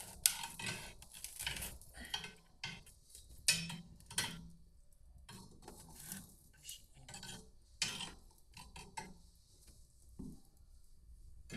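Irregular clinks, knocks and scrapes of utensils against cookware, as in stirring and handling pans.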